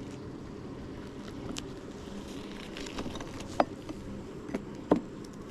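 Honeybees buzzing steadily around an open hive. Over the buzz come several sharp clicks and knocks as propolis-sealed frames are pried loose with a hive tool, the loudest near the end.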